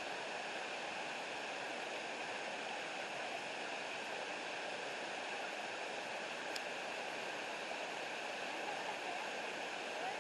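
Waterfall and creek water rushing steadily, with a faint single click about six and a half seconds in.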